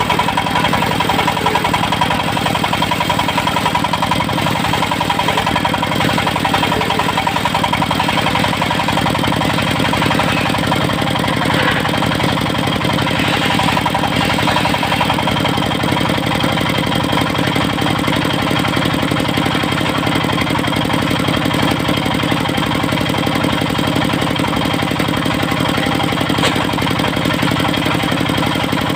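Portable circular sawmill running steadily: its engine chugging with the disc saw blade spinning, giving a steady whine over the engine hum.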